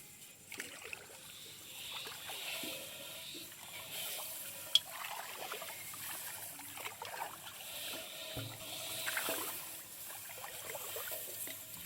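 Water trickling and lightly splashing as a wet fishing net is handled, with small irregular rustles and one sharp click about five seconds in.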